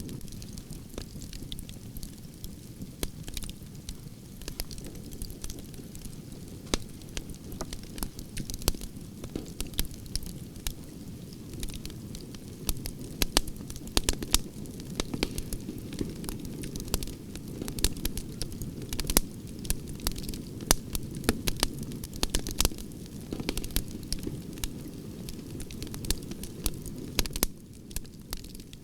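Wood branches burning in a campfire: a steady low rush of flames with frequent sharp, irregular crackles and pops.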